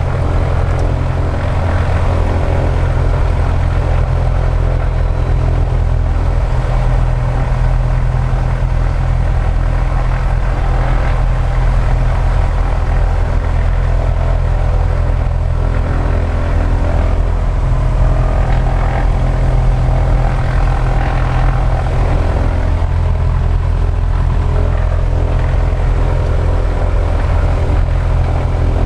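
Engine of a radio-controlled scale Super Decathlon model running steadily with its propeller turning after start-up, the note shifting slightly a couple of times. It is a spark-ignition engine.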